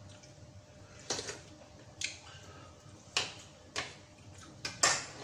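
Spoons and forks clinking against ceramic bowls and plates while eating: about six sharp, separate clinks, the loudest near the end.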